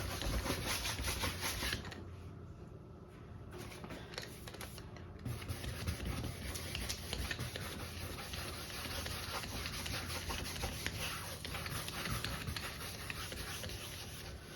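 Paintbrush rubbing and scrubbing over a damp stretched canvas as it spreads a thin glaze of acrylic paint: a steady scratchy brushing made of many small strokes, briefly softer a couple of seconds in.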